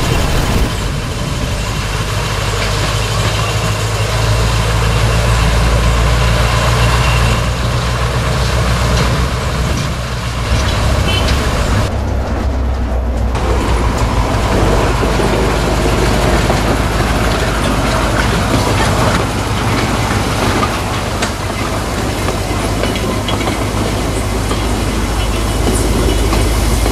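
Small narrow-gauge tourist train running along its track: the locomotive's engine gives a steady low drone over a constant rumble of wheels on the rails.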